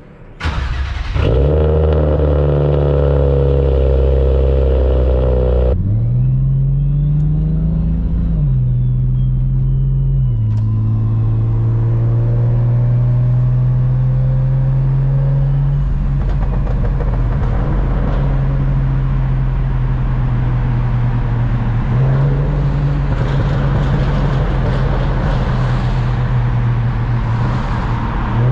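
The single-turbo BMW 335is's N54 inline-six running loudly. Its pitch rises about six seconds in, then drops in two steps and holds steady.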